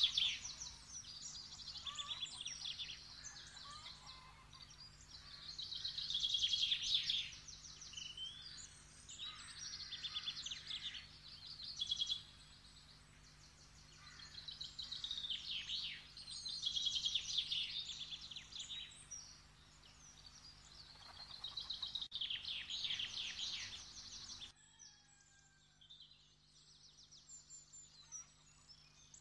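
Songbirds singing in repeated rapid trilled phrases, each a second or two long with short gaps between, over a faint steady hum. The birdsong drops to a much quieter level near the end.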